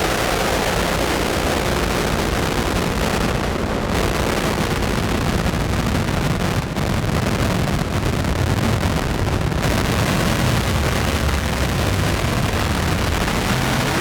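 Noisy synthesizer drone from a Novation Circuit groovebox playing an experimental 'Howl' preset: a loud, dense wash of noise with a flickering low rumble and no clear pitch.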